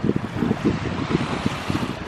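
Wind buffeting the microphone: an uneven, gusty low rumble under a steady rushing hiss.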